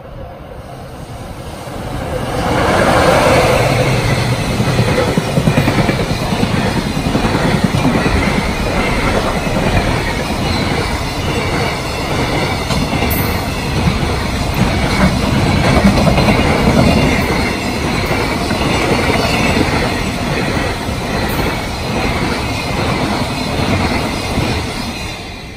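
Freight train passing at speed. The locomotive goes by about three seconds in, the loudest moment. A long string of container wagons then rattles past with a steady clatter of wheels over the rail joints, fading just before the end.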